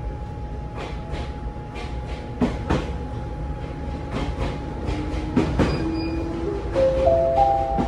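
Ohmi Railway electric train pulling away, heard from inside the car: the wheels click over rail joints over a low rumble. From about five seconds in, the motor's whine climbs in steps as the train gathers speed.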